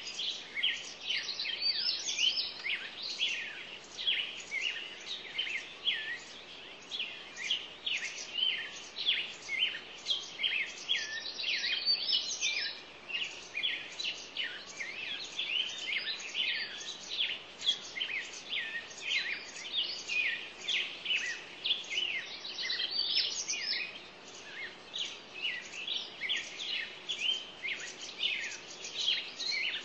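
Many small birds chirping and calling at once in a dense, continuous chatter of quick high chirps and trills.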